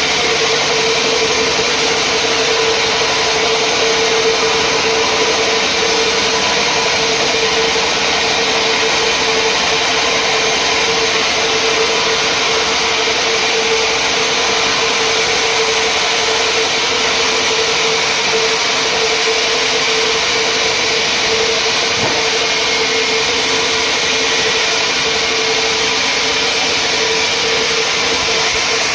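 Sawmill machinery running steadily, a constant hum over a broad rushing noise with no break or change.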